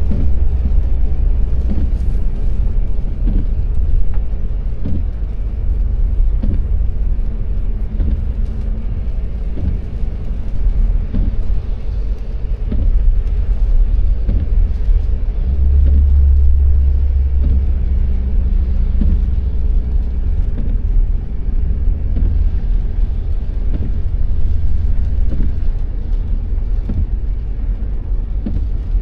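Car driving along: a steady low rumble of engine and road noise that swells somewhat in the middle, with faint ticks here and there.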